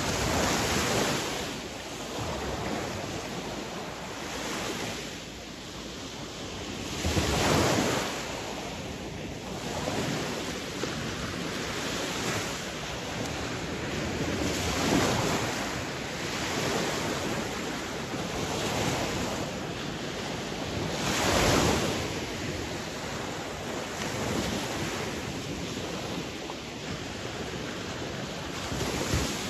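Sea waves breaking and washing ashore: a continuous surf noise that swells every few seconds, with the biggest surges about a quarter and about two-thirds of the way through.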